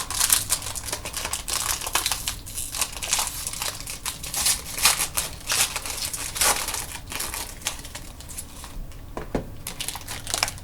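Wrapper of a sports trading card pack being torn open and crinkled, with dense crackling and clicking that thins out in the last few seconds as the cards come out.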